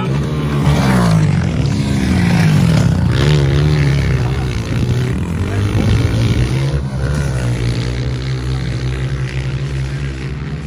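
Off-road vehicle engine revving hard, its pitch climbing and dropping repeatedly over the first few seconds, then running steadier toward the end.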